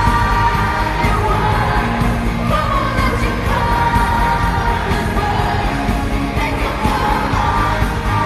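Live pop music played loud through a concert sound system: a woman singing the lead over a full band backing.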